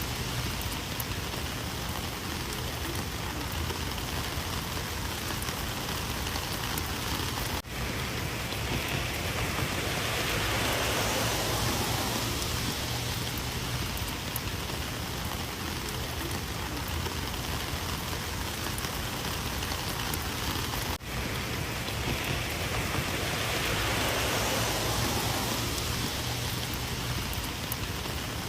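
Steady rain falling on surfaces, a dense continuous hiss that swells and eases slightly, with two very brief dropouts in the sound.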